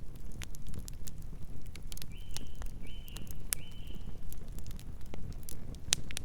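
Campfire burning: wood crackling and popping in irregular sharp snaps over a low rumble of flames. About two seconds in, three short high-pitched notes sound in quick succession.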